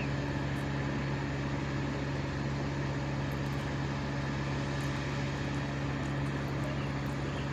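An engine running steadily at high speed: an even, unchanging hum with a few steady tones.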